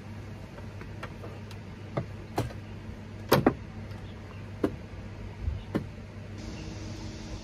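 A steady low hum with scattered sharp knocks and clicks, about six in all, the loudest a quick double knock about three and a half seconds in.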